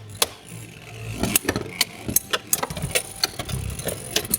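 Beyblade X spinning tops battling in a stadium: a steady whir with irregular sharp clacks as they strike each other, coming thick and fast from about a second in.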